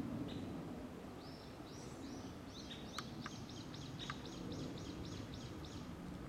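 A songbird singing a fast run of about fifteen short, high, downslurred notes, three to four a second, for several seconds, over a low steady background rumble. Two sharp clicks come in the middle of the song.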